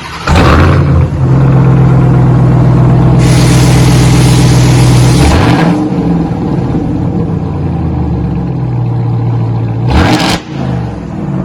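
2021 Ram TRX's supercharged 6.2-litre V8 revved through 3-inch muffler delete pipes: it jumps to a high engine speed just after the start, holds it for about five seconds, falls back to a lower steady note, then gives one short rev near the end. Loud.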